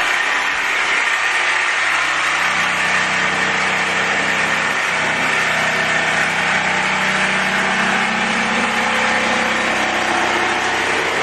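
Electric power saw running steadily while cutting the locking edge off a cork floor plank, trimming it to leave a quarter-inch expansion gap at the wall.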